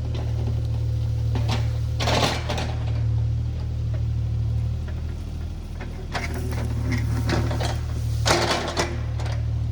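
Diesel engine of compact earthmoving equipment running steadily at a low drone, with louder rushes of harsh noise about two seconds in and again near the end.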